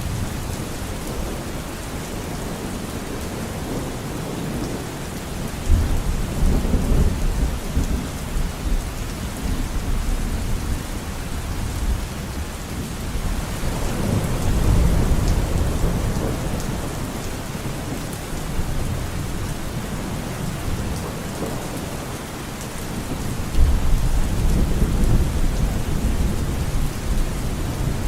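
Steady rain in a forest, with thunder rumbling low three times: about six seconds in, around the middle, and near the end.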